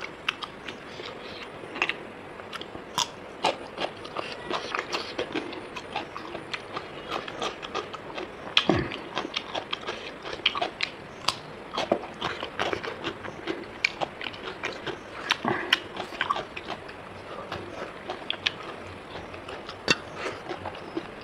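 Close-up chewing and biting of rice and pork: a steady, irregular run of wet smacks and clicks, with a dull thump about nine seconds in.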